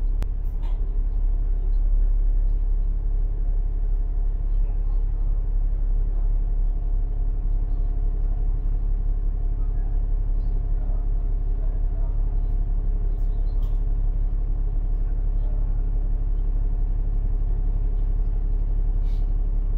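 Citybus S52 bus's engine and road noise heard from inside the cabin while it runs steadily: a low rumble with a steady drone.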